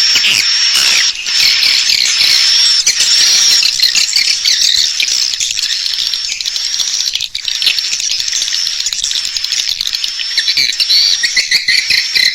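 Edible-nest swiftlets twittering in a dense, continuous, high-pitched chatter of many overlapping chirps. This is a swiftlet call (lure) recording of the kind played to draw swiftlets to roost and nest in a bird house.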